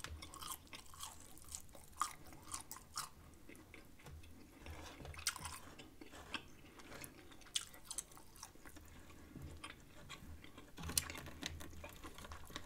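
Close-miked chewing of smoked chicken, with many soft wet mouth clicks and smacks scattered throughout.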